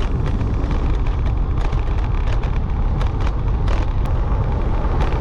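Wind rushing over the microphone of a moving scooter, a steady low rumble of wind and road noise, with scattered small clicks and rattles throughout.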